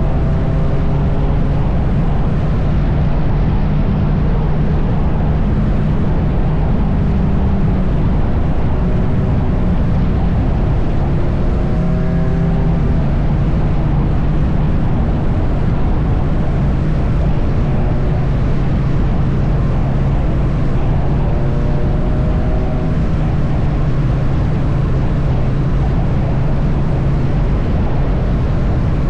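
Triumph Bonneville T100's parallel-twin engine running at a steady highway cruise, mixed with heavy wind rush and road noise.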